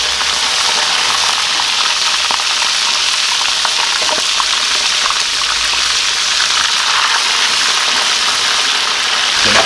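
Whole spiny lobsters deep-frying in a pan of hot oil with garlic and scotch bonnet pepper: a steady, loud sizzle with scattered small pops.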